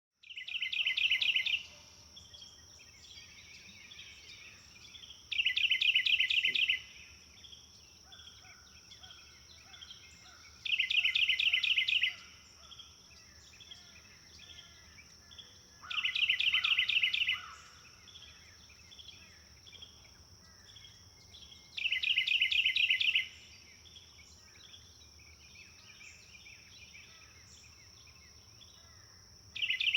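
A songbird repeating a fast trill about every five seconds, each trill lasting just over a second, with fainter chirps of other birds between them over a steady high-pitched tone.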